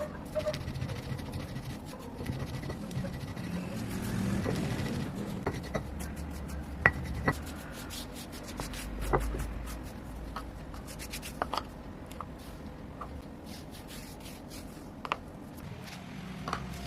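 Green chalk being crushed and worked into powder: continuous scraping and rubbing, broken by scattered sharp crunchy clicks as pieces crack.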